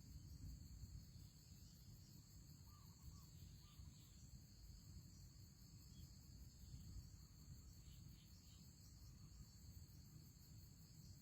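Faint outdoor ambience: a steady high insect drone over a low rumble, with a few faint chirps about three seconds in.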